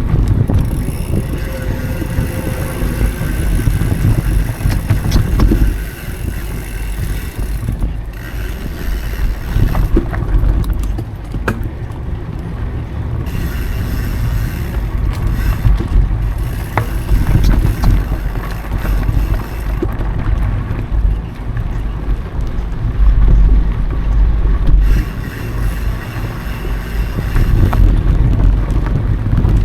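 Mountain bike riding a dry singletrack trail: heavy wind buffeting on the action camera's microphone over tyre and trail rumble, with scattered knocks and rattles from bumps. A high, even buzz comes and goes in several stretches.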